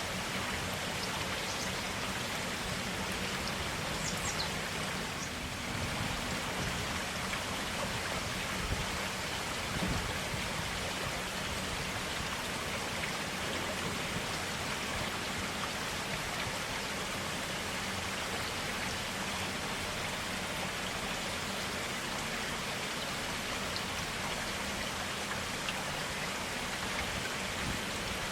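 Clear stream water flowing and splashing steadily in a forest, a continuous even rush with occasional small drips.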